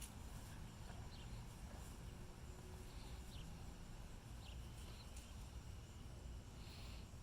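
Faint scuffling and a few soft clicks from a puppy at play, over a low, steady background rumble.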